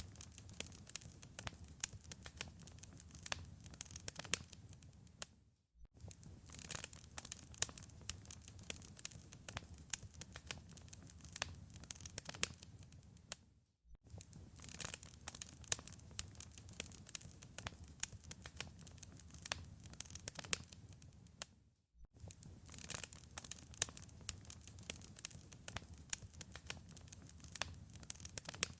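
Wood fire crackling in a fireplace: dense, irregular pops and snaps over a low rumble. The sound breaks off to near silence for a moment about every eight seconds, then resumes.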